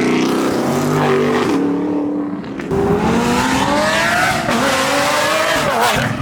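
A performance car's engine revving hard as it accelerates away, its pitch climbing. The sound drops briefly about two seconds in, then climbs again.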